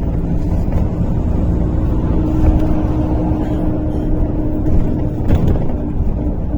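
MAZ-103 city bus driving between stops, heard from inside the passenger cabin: a steady low engine and road rumble with a steady droning tone running through it, and a couple of faint rattles near the end.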